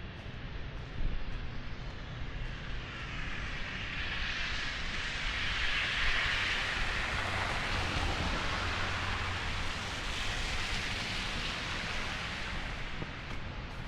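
A vehicle driving past, its tyre hiss and engine swelling over several seconds and then fading away.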